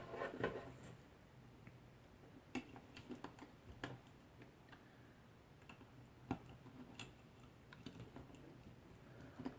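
Faint, irregular clicks and taps of hands working Cat6 cable conductors and small plastic parts.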